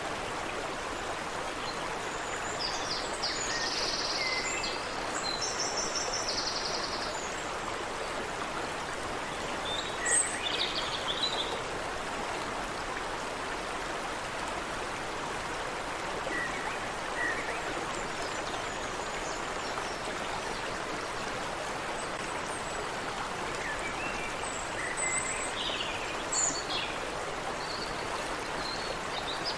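Stream water running steadily, with birds calling now and then over it: a rapid high trill a few seconds in, and short chirps around ten seconds and again near the end.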